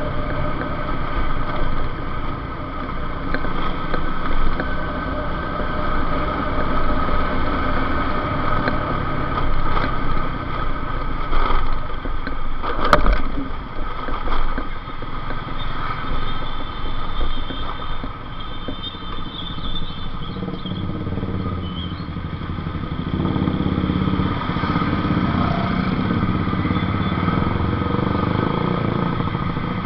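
Motorcycle engine running under way, its level rising and falling, with a sharp click about 13 seconds in.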